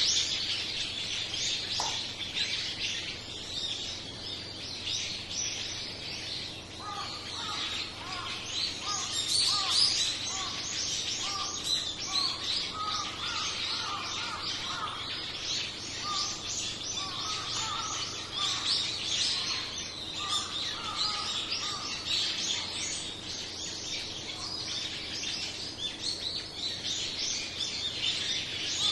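A flock of small birds calling together in a dense, continuous chorus of high chirps. Lower repeated calls join in about a quarter of the way through.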